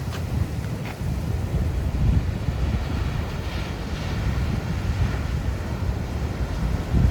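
Heavy ocean surf rumbling and washing, with wind buffeting the microphone; a hissing wash of breaking water swells up midway.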